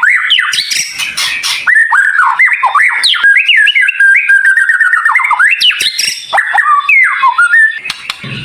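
White-rumped shama (murai batu) song: a fast, dense run of high whistled notes sweeping up and down, mixed with sharp chattering phrases.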